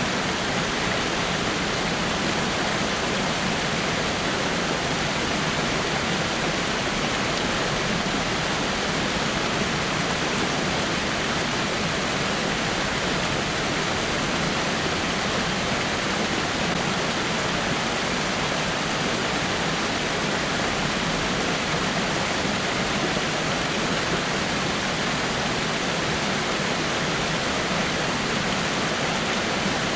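Water falling over rocks in a small waterfall: a steady, unbroken rushing splash.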